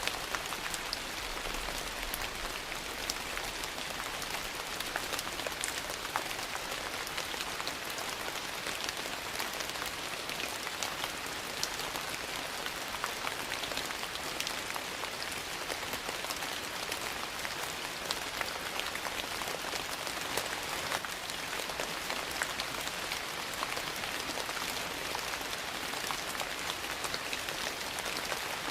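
Steady rain hissing, mixed with the small sharp pops and crackles of a wood fire burning in a fireplace, scattered irregularly throughout.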